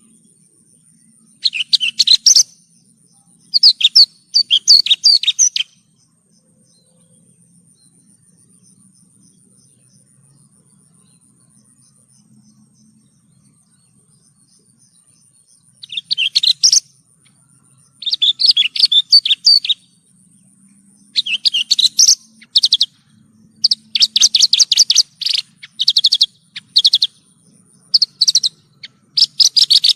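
Javan bush lark (branjangan) singing in bursts of rapid, high chirping trills. After two early phrases there is a pause of about ten seconds, then the phrases come thick and close together near the end.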